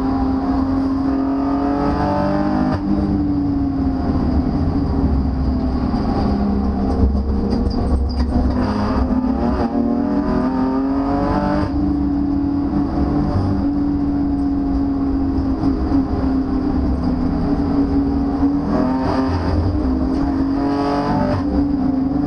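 BMW M4's twin-turbo straight-six engine running hard on track, heard from inside the cabin, its pitch rising and falling as the car accelerates and eases off, over steady road and wind noise.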